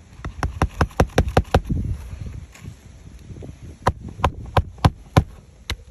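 Hammer striking roofing nails into brittle asphalt shingles: a quick run of about eight sharp blows, a pause, then about five slower blows and one more near the end.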